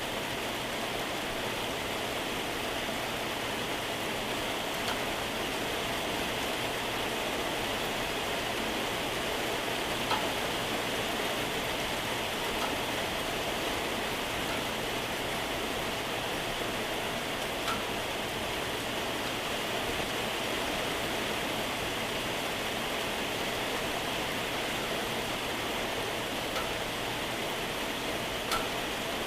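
Steady moderate to heavy rain falling, a continuous even hiss with a few individual drops ticking out now and then.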